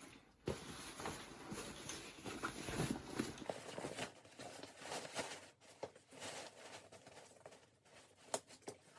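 A canoe pack being buckled shut: fabric and straps rustling for the first few seconds, then scattered clicks and taps as the buckles are done up.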